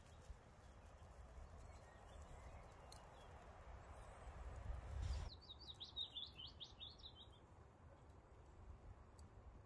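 A small songbird sings one quick trill of about a dozen short high notes, lasting around two seconds and starting about five seconds in. Before it there is only a faint low rumble and hiss of outdoor ambience.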